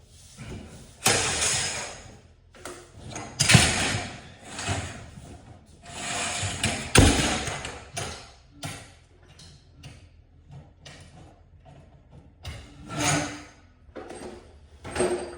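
Irregular bursts of clattering and scraping, with sharp knocks about three and a half and seven seconds in.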